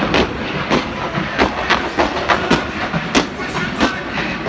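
Fireworks display: a rapid, irregular string of sharp bangs from shells launching and bursting, about three a second, over a steady noisy background.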